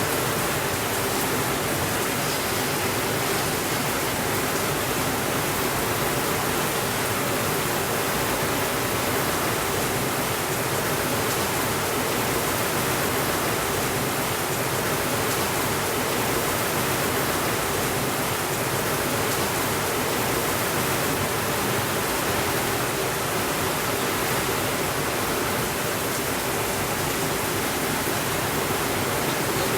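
Steady rainfall, an even, unbroken wash of noise with no thunder.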